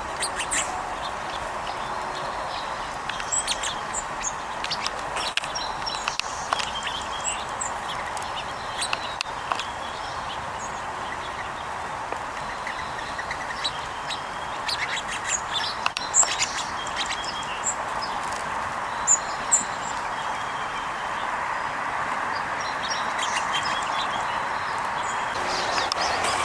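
Sparrows and other small birds chirping in scattered short calls over a steady background hiss.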